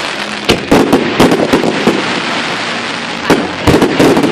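Fireworks going off: a quick run of sharp bangs in the first second and a half, a lull, then another cluster of bangs near the end, over a steady background hiss.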